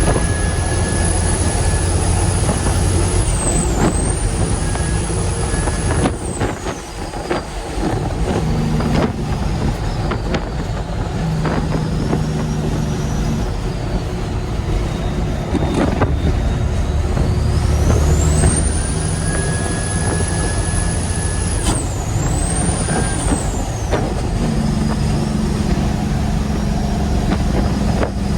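A heavy truck's diesel engine running under way. A high whine rises and falls with engine speed, dipping briefly near 3 s and 22 s and falling away around 6 s and 24 s.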